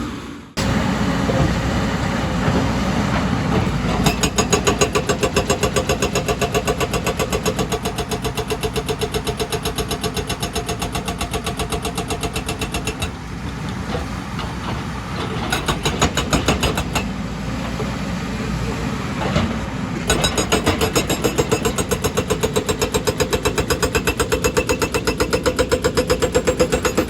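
Excavator at work on rock: its engine running under load with a rapid, even pounding of several strokes a second. The pounding stops briefly twice and then resumes.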